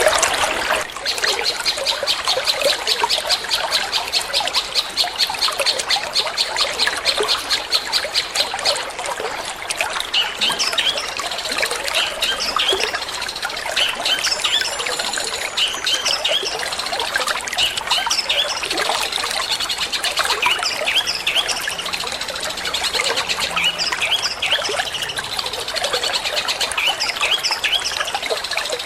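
Long-tailed shrike (cendet) singing in the 'petir' style: a fast run of evenly repeated high notes for the first several seconds, then scattered, varied chirps and whistles. Water trickles steadily underneath.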